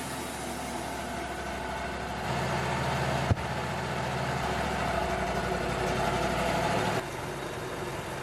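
Wood-Mizer LT35 portable sawmill running steadily. Its sound gets louder and heavier a little over two seconds in and drops back about seven seconds in, with one sharp knock a little after three seconds.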